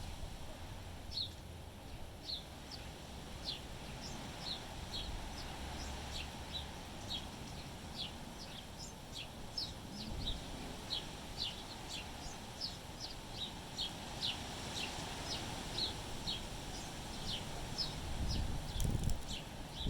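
A small bird chirping over and over, short high notes about two a second, against a low rumble of wind on the microphone that gets louder near the end.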